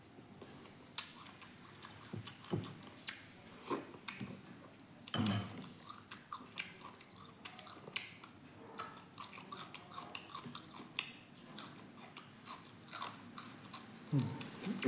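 Close-miked chewing and biting of meat and rice, with wet mouth clicks and smacks scattered throughout. There is a louder bite about five seconds in, and he gnaws meat off a bone near the end.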